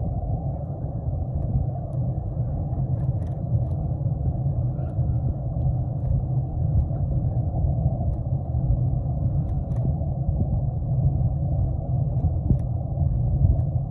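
Steady wind rumble on the microphone while riding a bike, with a few faint clicks.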